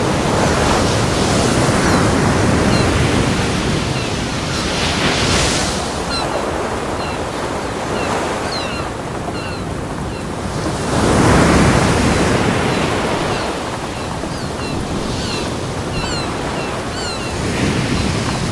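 Ocean surf breaking on a beach: a continuous wash of waves that swells and ebbs, with the largest wave breaking about eleven seconds in.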